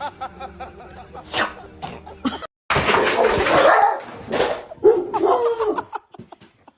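A dog vocalizing, with a short pitched, bending call about five seconds in, after a burst of noisy sound.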